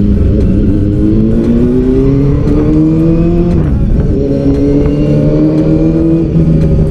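A vehicle engine accelerating on the road: its pitch climbs for a few seconds, drops sharply at a gear change a little past halfway, then climbs again over a steady low road rumble.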